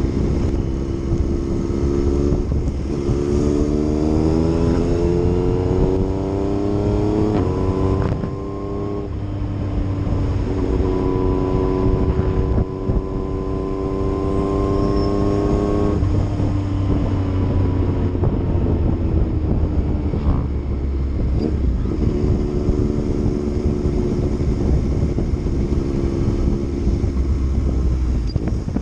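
Yamaha MT-09 three-cylinder engine under way: it revs up through a couple of gear changes, holds a steady speed, then eases off and settles at a lower steady pace, over wind rush.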